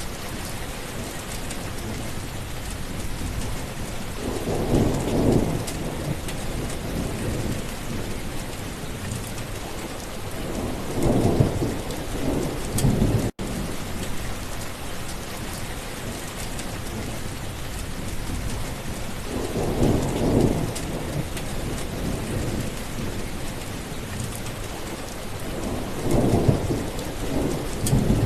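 Thunderstorm: steady rain with four low rolls of thunder, each lasting a second or two. The sound cuts out for an instant about halfway through.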